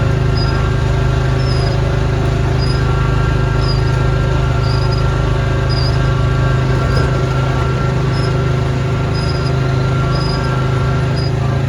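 Small engine of a snowblower running steadily at a constant speed, with short high chirps recurring about once a second over the engine.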